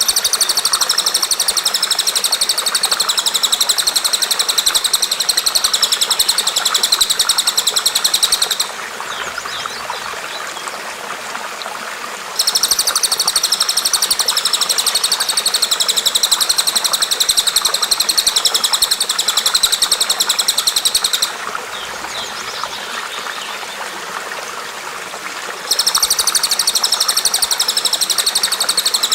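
A recorded songbird's high, fast, buzzing trill, held for about eight or nine seconds at a stretch and repeated three times with short pauses, over the steady trickle of flowing water.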